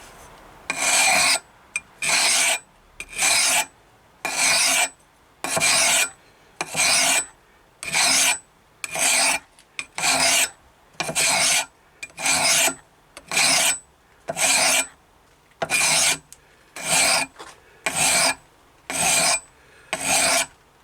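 Hand file rasping across the steel edge of a hatchet head in steady, even strokes, about one a second with short pauses between, putting a new edge on a blunt, dinged blade.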